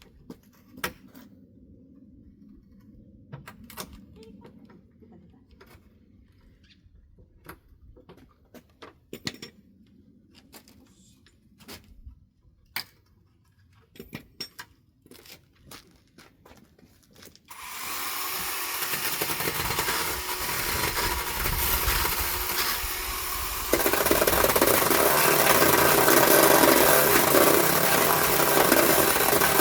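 Scattered knocks and taps of pallet boards being handled, then a power tool starts abruptly about two-thirds of the way in and runs steadily, getting louder partway through.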